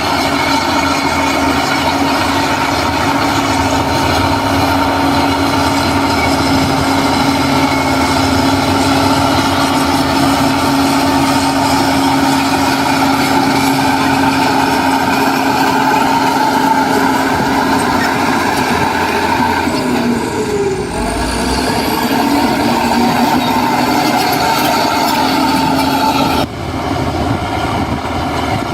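Heavy diesel engine of earth-moving machinery running steadily under load, its pitch dropping and rising again briefly about two-thirds of the way through; the sound changes abruptly near the end.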